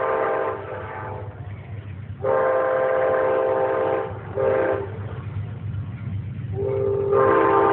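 Amtrak train's air horn sounding the grade-crossing signal: the tail of one blast, a long blast, a short blast, then another long blast that is still sounding at the end, all over the steady low rumble of the moving train. The long-long-short-long pattern signals the train approaching a road crossing.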